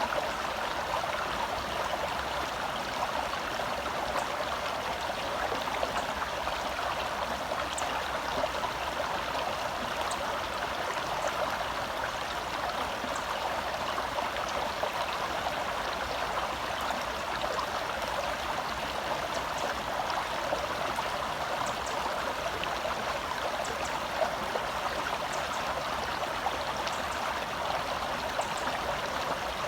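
Gentle forest stream flowing, a steady, even rush of water.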